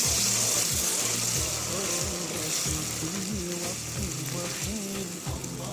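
Water just poured onto toasted bulgur in a hot, oiled pot sizzling, the hiss fading over a few seconds, under background nasheed music with a male voice singing.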